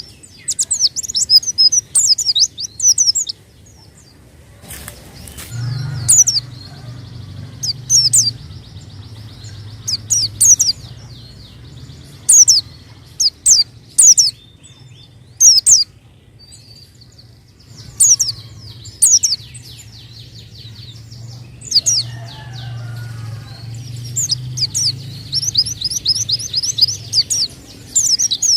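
White-eye (pleci) singing: bursts of fast, high-pitched twittering made of quick falling notes, in phrases a second or two long with short pauses between them, over a faint low hum.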